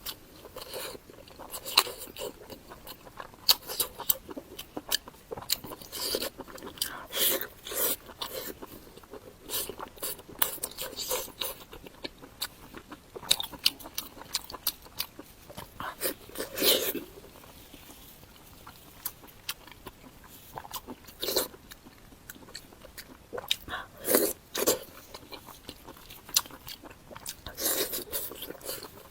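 Close-miked mouth sounds of someone biting and chewing strips of pork belly: irregular wet clicks and crunches, with a few louder bites.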